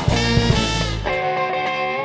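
Live funk-soul band with electric guitar, bass and drums playing the closing bars of a song: a full-band hit, then the bass and drums drop out about a second in while a held guitar chord rings on.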